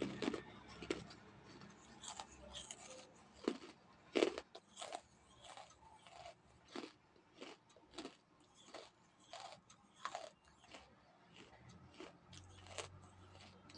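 Close-up chewing of crunchy food, with short crackling crunches. A louder bite comes about four seconds in, followed by steady chewing at about one and a half crunches a second.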